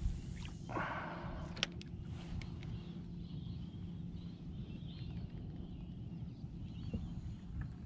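Open-water ambience from a kayak: a brief rushing swish about a second in and a few light clicks over a steady low background hum, with faint bird calls in the middle.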